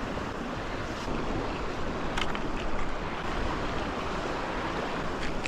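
Ocean surf washing steadily, with wind buffeting the microphone and a few faint clicks.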